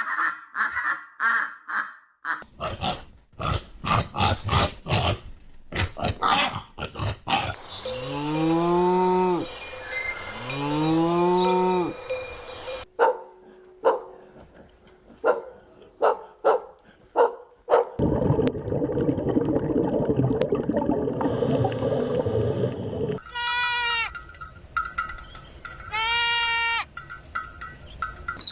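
Farm animals calling, most likely sheep bleating: two long calls that rise and fall in pitch near the middle, and two higher-pitched calls near the end. Clicks and a stretch of rustling noise fall between them.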